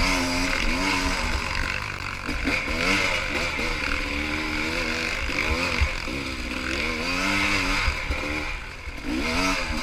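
Pit bike engine being ridden hard, its pitch rising and falling over and over as the throttle is opened and eased off.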